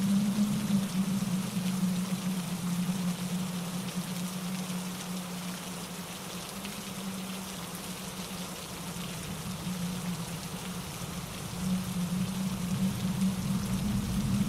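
Steady rain falling with wind in trees and a mountain stream running over rocks, a dense even rush with a deep low rumble. It eases a little in the middle and swells again near the end.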